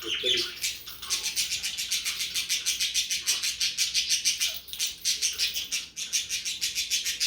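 Small bells jingling in a fast, even shaking rhythm, about eight to nine strikes a second, as a pet bird plays with and tugs at them. The jingling pauses briefly a few times.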